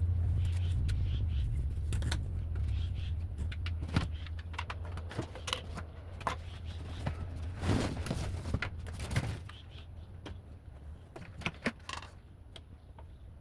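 Irregular clicks and knocks of a car vacuum cleaner's plastic filter and housing being handled and cleaned, over a low rumble that fades away by about the middle.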